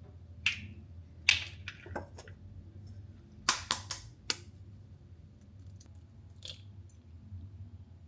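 Sharp clicks and light knocks of kitchen utensils and containers being handled, a quick cluster of three or four taps in the middle and a single one near the end, over a low steady hum.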